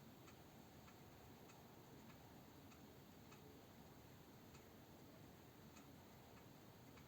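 Faint, steady ticking of a clock, a little under two ticks a second, over quiet room tone.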